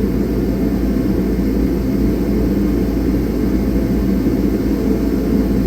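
Steady running noise of a shop heater, a loud even rumble without change.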